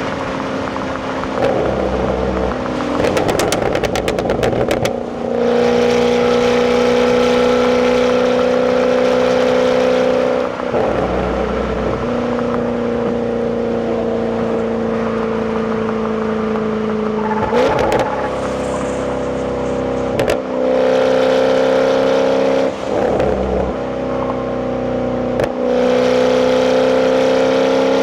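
Jaguar F-Type's supercharged 5.0 V8 with its stock exhaust, heard from inside the cabin while driving. The engine note holds fairly steady at moderate revs, broken by several short gaps like gear changes, with a quick run of crackles from the exhaust a few seconds in.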